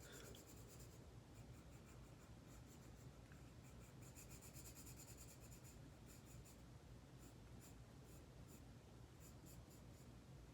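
Faint scratching of a drawing pen on paper, in short runs of strokes with pauses between.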